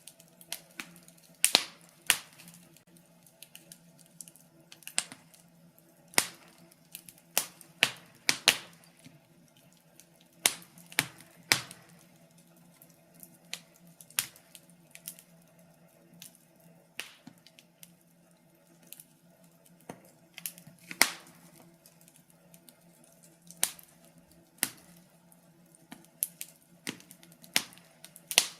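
Wood fire crackling: irregular sharp pops and snaps of burning logs, some loud and some faint, spaced unevenly a fraction of a second to a couple of seconds apart.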